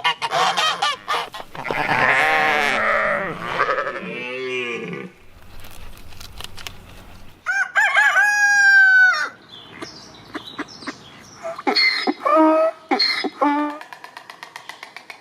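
Farmyard chickens: a rooster crows once about eight seconds in, and hens cluck near the end. Other farm-animal calls come before the crow.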